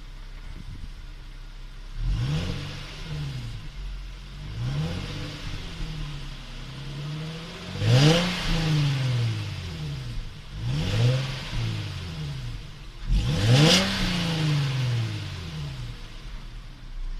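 Nissan V36 Skyline 250GT's VQ25HR 2.5-litre V6 through its stock exhaust, idling and then blipped five times; each rev climbs and falls back to idle. The third and fifth revs are the highest and loudest.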